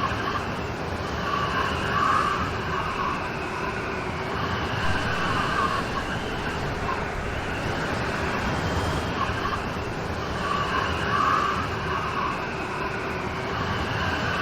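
Steady heavy rain, an even rushing hiss with faint swells that come and go.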